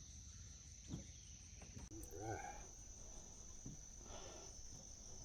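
Faint, steady, high-pitched insect chirring, with a couple of soft knocks and a brief faint voice in the background.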